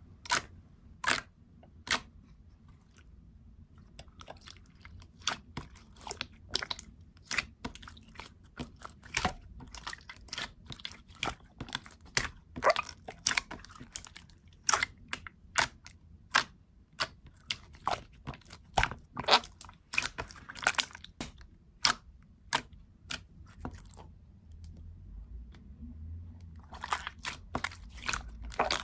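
Close-up crunching: many sharp, irregular crunches, a few a second, thinning out for a few seconds before picking up again near the end.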